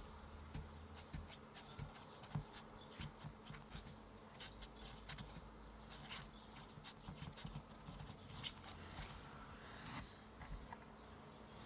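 Faint, irregular small clicks, taps and scratching as the dust bin of a Hoover ONEPWR cordless stick vacuum is emptied of debris, over a steady low hum.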